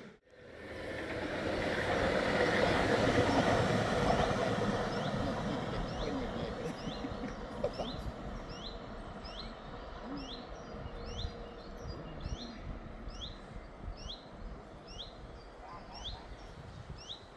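A train passing: its rumble swells and then slowly dies away. From about five seconds in, a bird repeats a short, rising, high call over and over.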